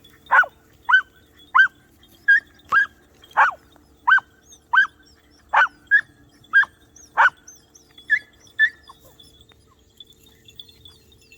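Podenco hound puppies giving tongue on a rabbit's scent: a string of short, high yelps, about one or two a second, that stops about nine seconds in. Faint bird chirps near the end.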